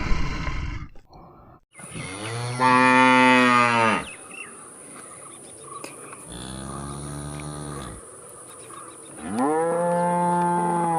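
Cow mooing three times: long, drawn-out moos, the first the loudest, the second quieter. A short noisy burst comes right at the start.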